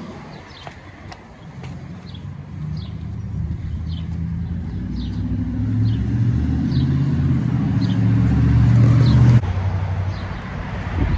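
A passing motor vehicle's engine, a low hum growing steadily louder for several seconds as it nears, then cut off suddenly about nine seconds in.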